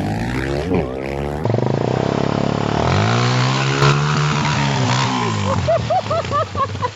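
Motorcycle engine running and revving, its pitch rising and then falling as it goes by, with an abrupt change in the sound about a second and a half in. Short rising-and-falling high sounds come near the end.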